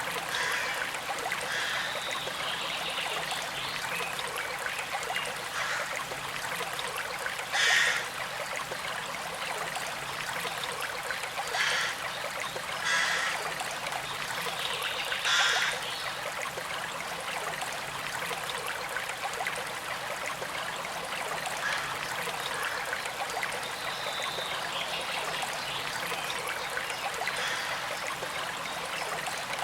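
Small creek trickling and gurgling steadily, with a few brief louder surges of water about eight, twelve, thirteen and fifteen seconds in.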